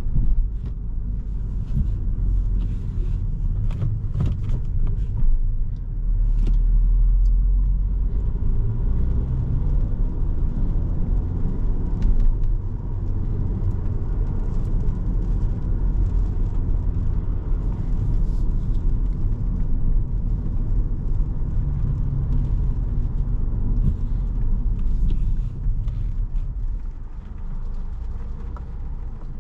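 Interior road noise of a 2017 Volkswagen Jetta SE with its 1.4-litre turbo four-cylinder and 5-speed manual, driving: a steady low engine and tyre rumble, with a few faint clicks a few seconds in. It gets a little quieter near the end.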